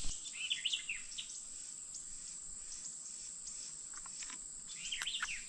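A steady, high-pitched insect chorus, with short bird chirps about half a second in and again near the end.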